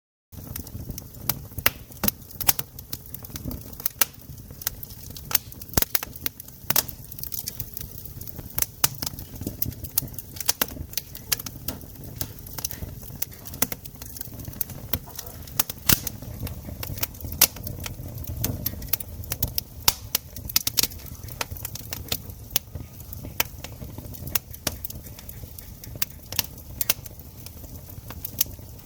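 Wood campfire crackling: irregular sharp snaps and pops over a low rumble of the burning fire.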